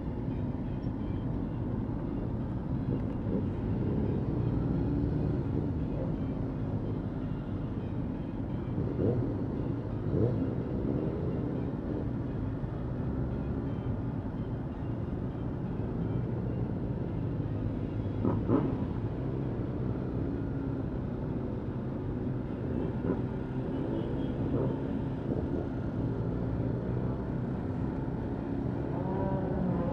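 Yamaha MT-125's single-cylinder four-stroke engine running at low speed among a group of other motorcycles, with a few short revs, the sharpest about eighteen seconds in.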